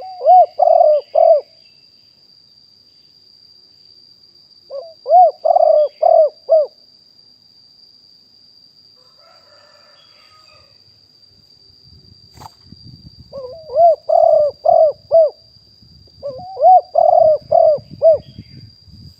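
Spotted dove cooing: four phrases of four or five quick arched coo notes each, spaced several seconds apart.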